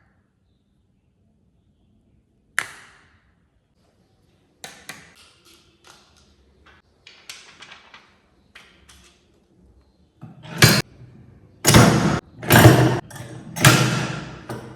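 Hand-working a fridge-magnet press and its parts: one sharp click, then a run of small clicks and taps, and near the end a string of louder knocks and scrapes, about one a second.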